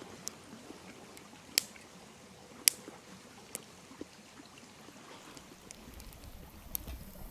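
Campfire crackling, with a few sharp, isolated pops, over the faint steady rush of a nearby stream.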